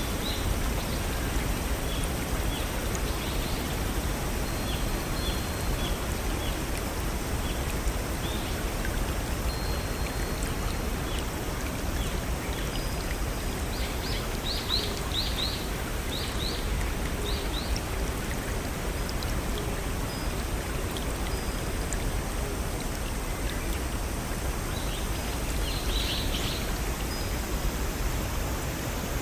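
Steady rushing of a babbling brook over small waterfalls, with small birds chirping: a few soft high notes early, a quick run of chirps about halfway, and another near the end.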